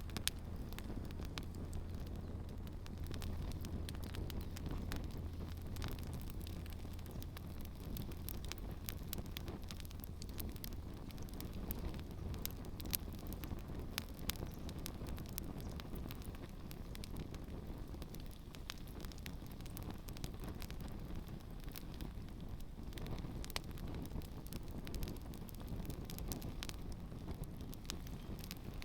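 Campfire burning steadily: a low rushing of flames with frequent small crackles and pops.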